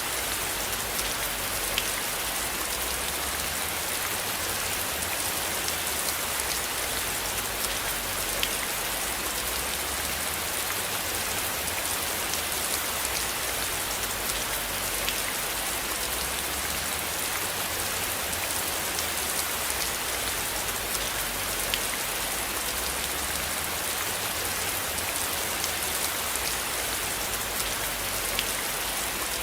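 Steady rain falling in an even hiss, with scattered single drops ticking sharply through it and a low rumble underneath that swells and fades every few seconds.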